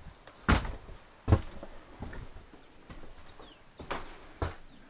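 Four dull thuds at uneven intervals, with a few faint high chirps of swallows between them.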